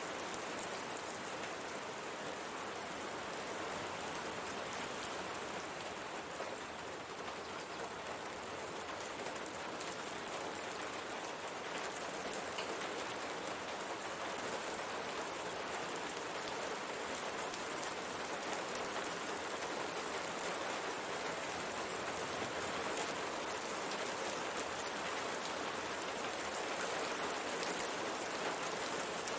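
Steady rain pattering on a window pane, a continuous even hiss of many fine drop ticks.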